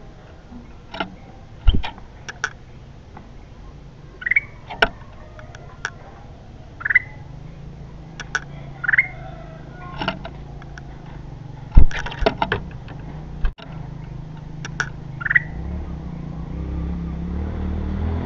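Kutilang emas bulbul giving short rising chirps every two or three seconds, mixed with several sharp clicks. A low rumble, like a passing vehicle, swells in the last few seconds.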